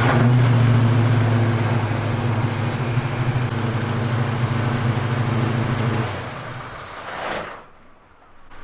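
Harley-Davidson motorcycle's V-twin engine running at a steady pitch, then dying away about six seconds in, with a brief swell just before it goes quiet.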